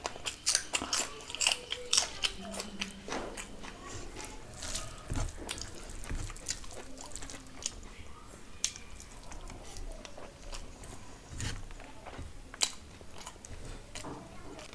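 Close-miked eating: crisp crunching and chewing of fried food in the mouth, with sharp crackles, densest in the first two seconds and again near the end. Fingers squish rice and curry against a steel plate in between.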